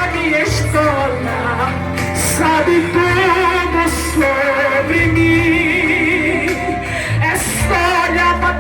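Live gospel worship music: a singer holding long, wavering notes over band accompaniment with a steady bass.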